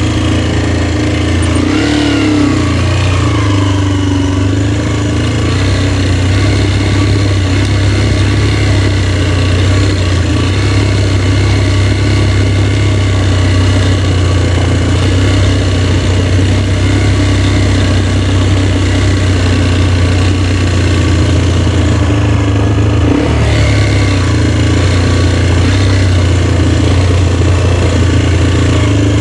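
Motorcycle engine running steadily under way, with a brief change in engine pitch about two seconds in and another shift near the end.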